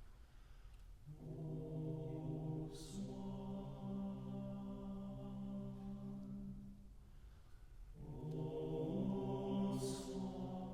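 Mixed choir singing slow, sustained chords in two phrases with a short breath between them, a hissing 's' consonant cutting in near the start of each held chord.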